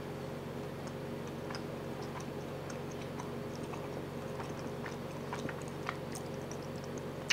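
A person chewing a bite of soft smoked pepper jack cheese close to a clip-on microphone: scattered small, wet mouth clicks over a steady low hum.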